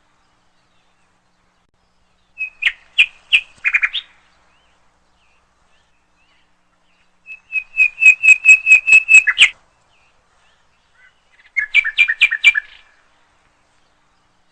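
A songbird singing three short phrases of quick repeated chirps, about six notes a second, with pauses of a few seconds between phrases; the middle phrase is the longest and loudest.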